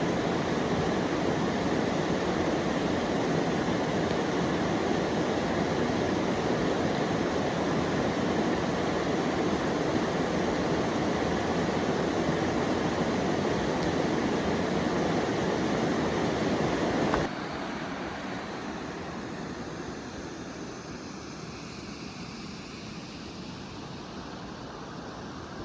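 Steady rush of a stream's flowing water. It drops suddenly to a softer rush about two-thirds of the way through.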